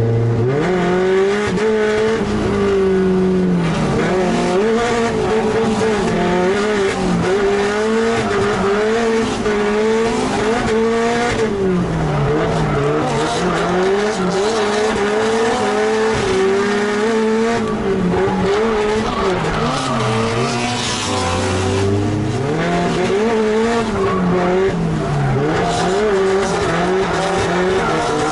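Drift car's engine heard from inside the cabin, revving up and falling back again and again as the car slides through a string of corners, with tyres squealing, most clearly about two-thirds of the way through.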